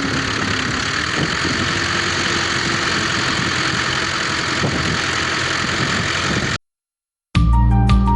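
New Holland 640 tractor's diesel engine running steadily. It cuts off abruptly about six and a half seconds in, and after a moment of silence music with a steady beat begins.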